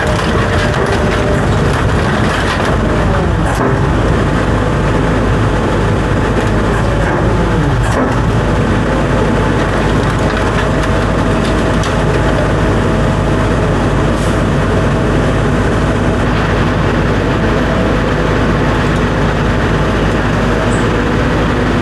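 A large engine running steadily and loudly, with a few short knocks and clanks over it.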